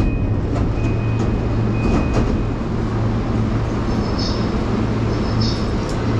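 Electric commuter train of the JR Yokohama Line running between stations: a steady rumble with a low hum, a few sharp clicks in the first half, and two brief high squeaks past the middle.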